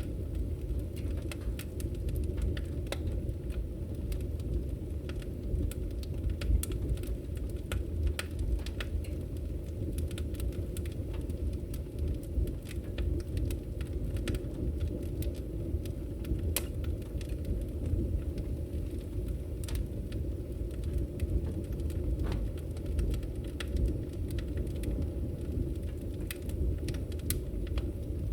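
Wood fire burning in a fireplace: a steady low rumble from the flames with frequent, irregular sharp crackles and pops from the burning logs.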